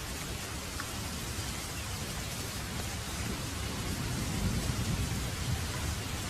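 Heavy rain falling steadily, with a low rumble of distant thunder swelling and fading about halfway through.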